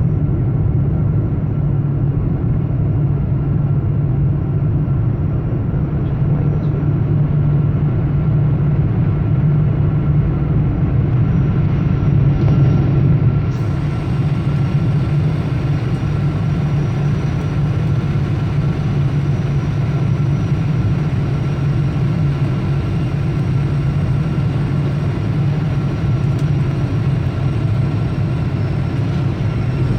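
Steady engine and airflow drone of a Boeing 777-200 heard from inside the passenger cabin, a loud low hum with a faint steady whine above it.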